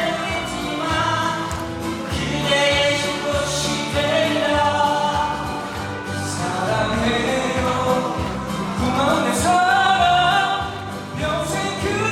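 A Korean love ballad sung with musical backing, the voice gliding through long held notes.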